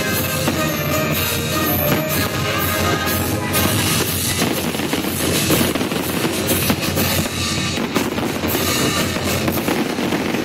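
Fireworks bursting over loud accompanying music, with many sharp bangs and pops scattered through it.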